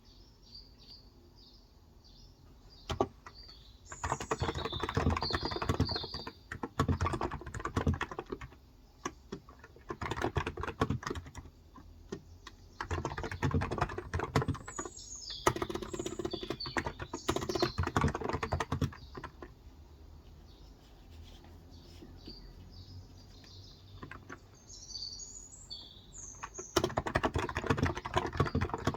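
Typing on a Cox Endeavor electrostatic capacitive (35 g) tenkeyless keyboard, in bursts of several seconds with short pauses between them. Birds chirp in the background throughout.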